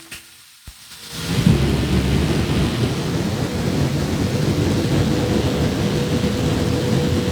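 A loud, steady, low rumbling noise sets in about a second in and holds, with a faint steady hum above it.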